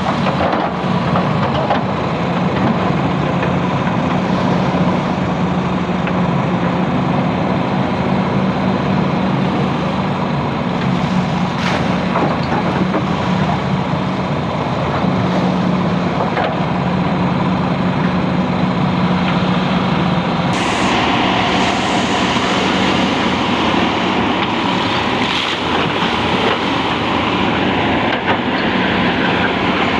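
Hydraulic excavators' diesel engines running steadily under load, with a constant low hum. About two-thirds of the way through, a brighter hiss joins in.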